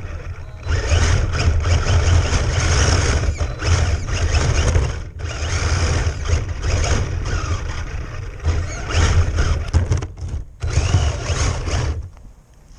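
RC car running on ice, its motor and tyres making a steady rough noise that cuts out briefly twice and fades away near the end.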